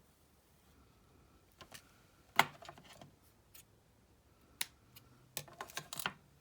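Desk crafting noises, a few scattered sharp clicks and snips from handling craft tools and paper. The loudest comes about two and a half seconds in, and a quick cluster follows near the end.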